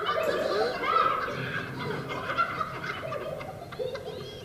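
A pack of hyenas cackling: many overlapping, high, chattering laugh calls.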